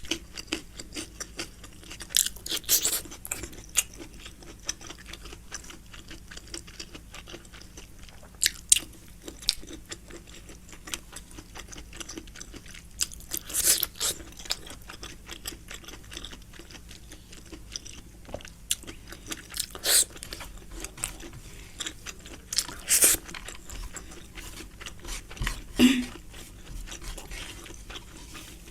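A person eating close to the microphone: steady chewing and biting of biryani, with louder sharp crunches every few seconds.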